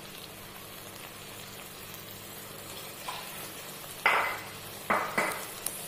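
Boiled kidney beans frying in masala paste in a kadhai, with a steady sizzle. A metal spoon scrapes through the mixture a few times in the second half.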